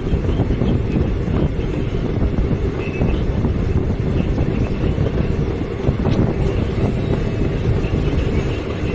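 A passenger train moving along the track, a steady low rumble of wheels and carriages on the rails.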